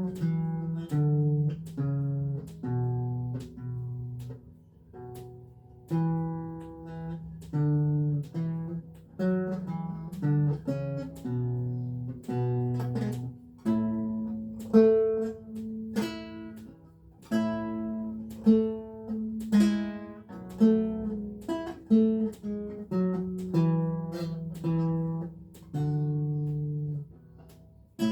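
Renaissance lute playing a slow piece, plucked notes and chords that ring and die away.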